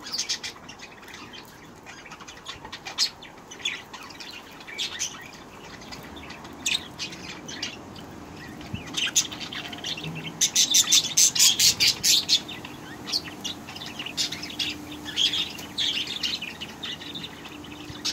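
A flock of budgerigars chirping and chattering in short, high calls, with a burst of loud, rapid chirps about ten seconds in.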